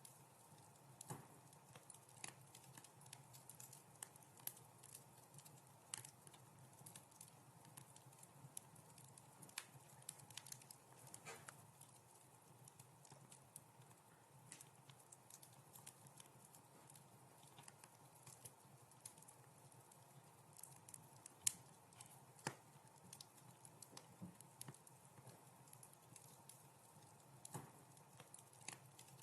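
Wood fire crackling in a fireplace: soft, irregular pops and snaps over a faint hiss, with one sharper pop about two-thirds of the way through.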